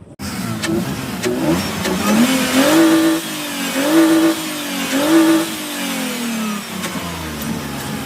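Car engine being revved: the revs climb, peak three times about a second apart, then fall away.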